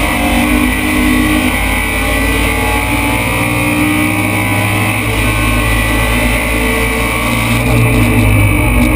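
BMW M3 race car's engine under load, heard from inside the cabin at racing speed, with a steady drone and a shift in its low notes about five seconds in.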